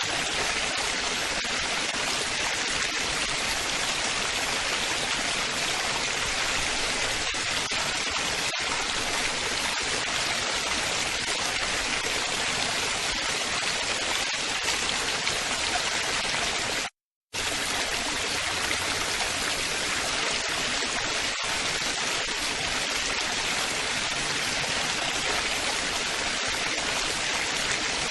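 Steady babbling water: a small stream or waterfall splashing evenly with a bright hiss. It cuts out completely for a split second a little past the middle, then resumes unchanged.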